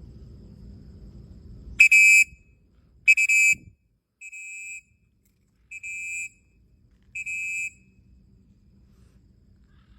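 Five high, steady beeps, each about half a second long and roughly a second apart, starting about two seconds in; the first two are the loudest.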